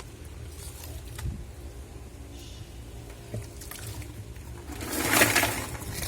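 Black & Decker washing machine running with a steady low motor hum while it churns water and clothes in its tub. About five seconds in comes a louder rushing swish of water.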